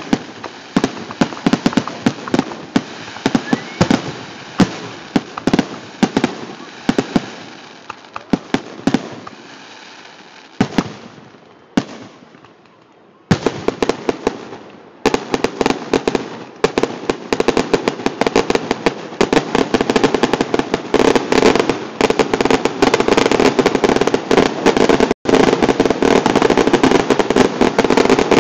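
Fireworks finale: bangs going off in quick succession, a brief lull just before the middle, then a dense, continuous barrage of bangs and crackle building to the end. The sound drops out for an instant about three-quarters through.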